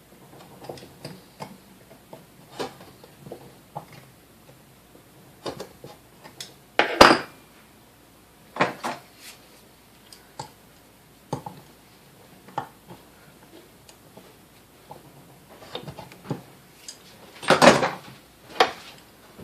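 Metal parts of a vintage Sunbeam Mixmaster stand mixer clinking and clattering as they are handled and set down during disassembly. Scattered short clicks, with a louder clatter about seven seconds in and another cluster near the end.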